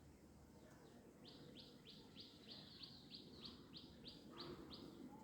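A bird calling a faint, quick run of about a dozen short, high, repeated notes, roughly three a second, starting about a second in and stopping near the end.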